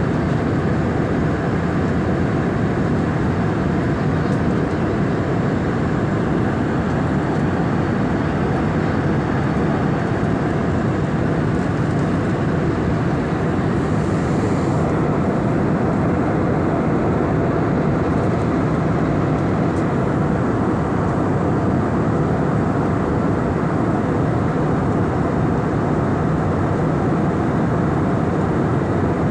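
Airliner engines and airflow heard from inside the passenger cabin: a loud, steady, even noise with no change in pitch or level.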